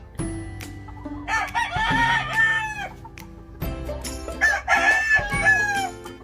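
Gamefowl roosters crowing: two long crows, the first starting about a second in and the second about four and a half seconds in.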